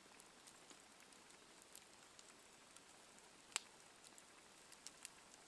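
Wood campfire crackling faintly: a soft hiss with scattered sharp pops, one louder pop about three and a half seconds in.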